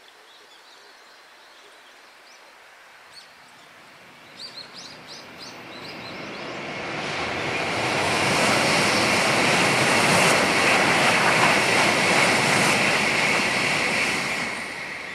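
Shinkansen high-speed train running past on a viaduct after leaving a tunnel: a rushing noise that builds from about six seconds in, holds loud for several seconds, and begins to fade near the end. A bird chirps a few times shortly before the train is heard.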